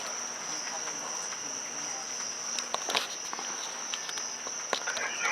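A steady, high-pitched chorus of insects that runs unbroken, with a few sharp ticks scattered through it.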